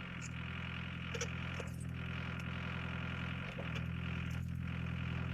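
Excavator's diesel engine running with a steady, even drone while the machine is worked back and forth to get itself out of the spot where it is stuck.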